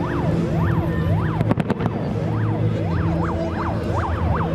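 Fireworks display: a rapid series of whistling shells, each whistle sweeping up and down in pitch, a few a second and coming faster later on, with a cluster of sharp cracks about a second and a half in, over a steady low hum.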